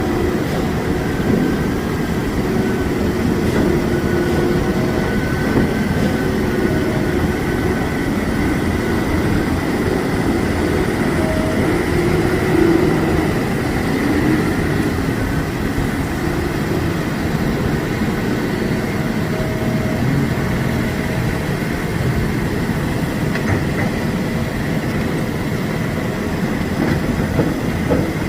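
Heavy diesel construction machinery running steadily, a dense low engine noise with faint whining tones above it and no breaks.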